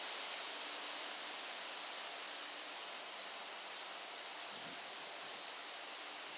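Steady, even hiss of outdoor background noise, strongest in the high range, with no distinct calls or knocks.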